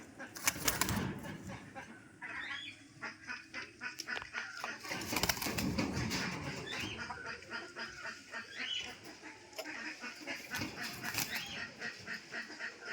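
Pigeons moving about, with repeated bursts of wing flapping and rustling, and short high calls now and then.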